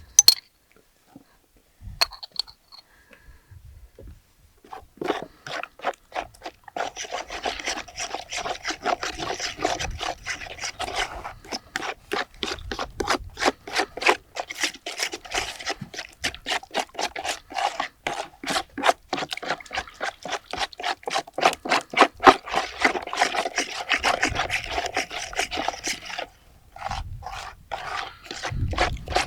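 Quick, regular scraping or rubbing strokes, several a second, starting about five seconds in after a few isolated clicks and stopping shortly before the end.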